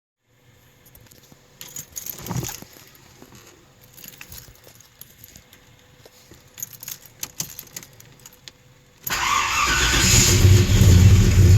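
Scattered light clicks and knocks, then about nine seconds in a classic car's engine is cold started: it catches suddenly and runs loudly.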